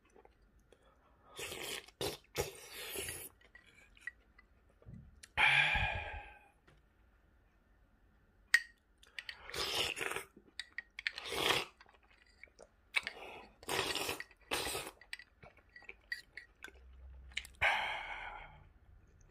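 Close-up chewing and mouth noises of someone eating a spoonful of shell pasta in tomato-feta sauce, in several short bursts with quiet pauses between.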